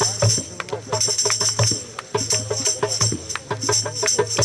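Percussive music: a tambourine jingling in bursts about once a second over a low drum beat, with quicker hand-struck strokes in between.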